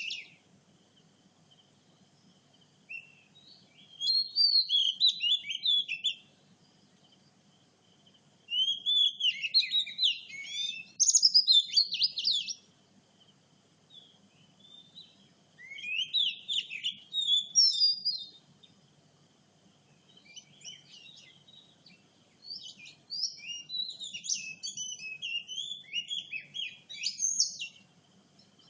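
Oriental magpie-robin singing: bursts of rich, varied whistled phrases a few seconds long, with short pauses between them.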